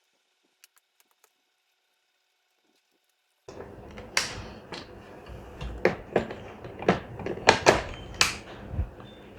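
Silence, then from about three and a half seconds in, a run of light, sharp plastic clicks and knocks from hands handling the rechargeable lamp and plugging in its charging cable.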